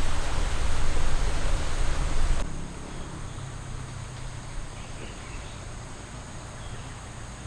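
Flowing river water, a steady rushing hiss that drops off suddenly about two and a half seconds in to quieter outdoor ambience with faint insect chirps.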